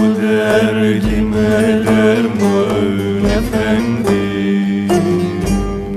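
Turkish folk song (türkü): a slow, held sung line over plucked-string accompaniment, with a soft bass beat about every two seconds.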